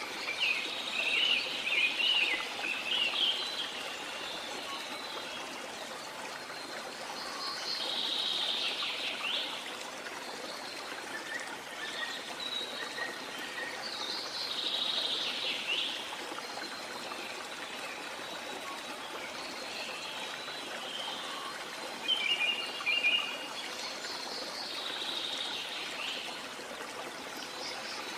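Waterfall rushing steadily, with birds calling over it: bursts of quick chirps near the start and again about three-quarters of the way through, and a longer, sweeping call repeated three times.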